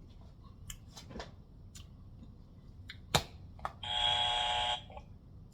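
A few light clicks, a sharper click about three seconds in, then an electronic buzzer tone lasting about a second.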